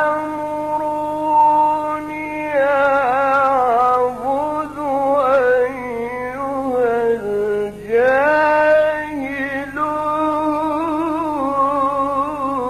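A man chanting the Quran in slow, melodic recitation, drawing single words out into long held notes that waver and ornament in pitch. There are short breaks between phrases, and the voice swoops up to a high note about eight seconds in.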